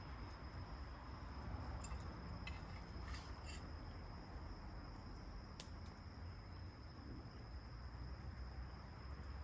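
Faint low steady rumble under a thin steady high tone, with a handful of small sharp clicks between about two and four seconds in and one more a little later.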